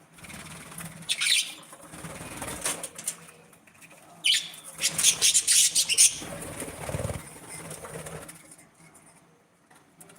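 Pet budgies and parrots flapping their wings in two flurries of rapid flutter, about a second in and again from about four to six seconds in, with brief chirps.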